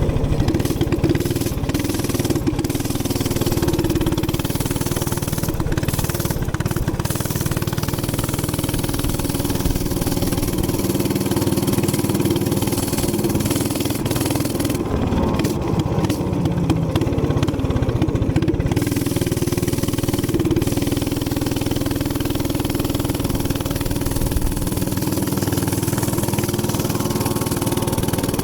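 Gas minibike engine running steadily while cruising at about 40 mph, with rushing noise over it.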